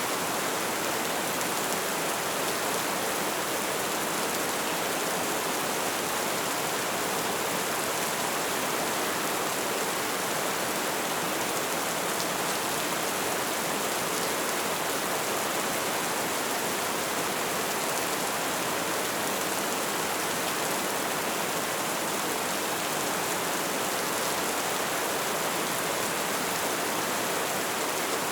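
Light rain falling steadily: an even, unbroken hiss of drops.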